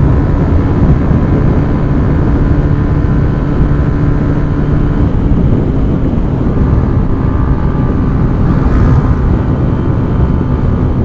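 Motorcycle engine running at speed under heavy wind and road noise, its pitch stepping down about halfway through.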